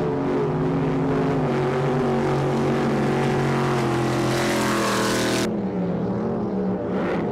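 Offshore racing powerboat engines running hard, with a rising rush of wind and spray noise that cuts off abruptly about five and a half seconds in, leaving a steadier engine sound.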